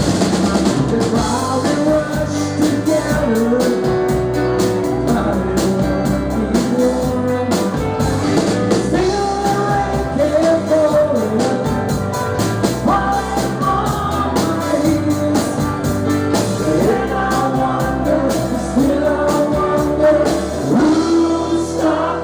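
A live rock band playing a song, with a singer over a drum kit and band.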